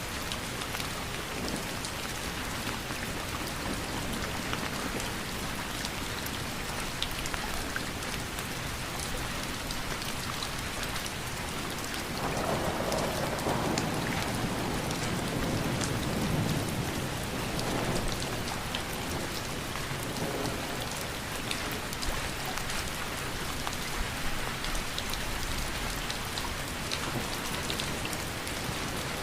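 Steady rain falling, with scattered individual drops ticking. About halfway through, a low rumble of thunder rolls for several seconds and then fades back into the rain.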